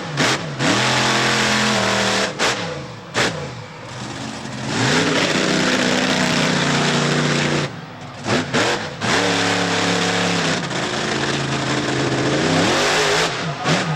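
Monster truck engine revving hard, its pitch sweeping up and down. There are several short throttle blips and two longer runs at full throttle, with brief dips between them.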